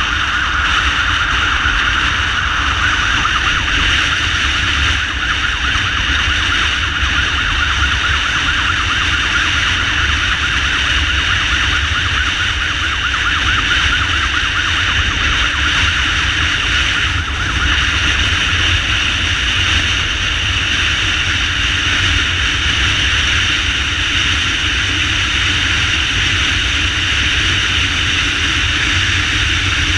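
Emergency siren of a SAMU ambulance motorcycle sounding steadily while it rides, over a continuous low rumble of the moving bike.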